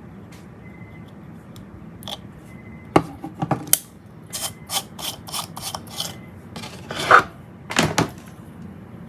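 Handling sounds of small hard parts: after a quiet start, a run of sharp clicks and clacks, about three a second, then two louder scrapes near the end.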